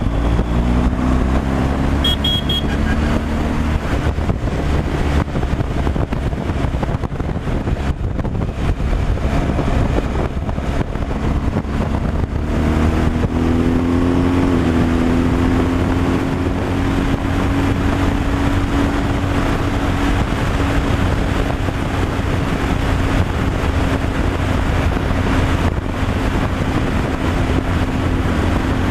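Truck driving on a highway: steady engine and road noise, with the engine note rising about 13 seconds in and then holding. A brief high beep about two seconds in.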